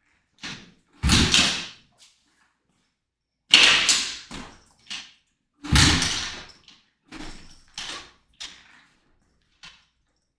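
A series of loud bangs and thuds, six or seven spread out over several seconds, each with a short echoing tail.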